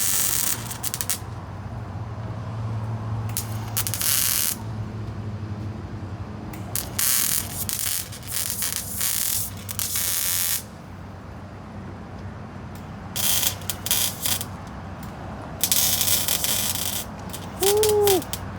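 Pneumatic shop air tool running in repeated bursts of hiss, starting and stopping sharply, the longest for nearly four seconds, over a steady low hum.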